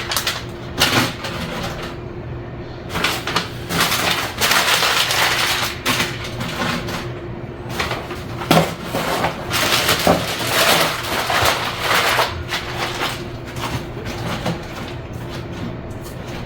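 Paper crinkling and kindling being handled in a wood stove's firebox: a run of clicks, knocks and crackles, with longer rustling stretches, over a faint steady hum.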